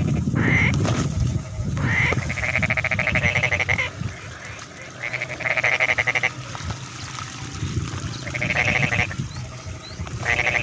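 Rice-paddy frogs calling: a series of long, pulsing calls, one every two to three seconds, over a low rumble.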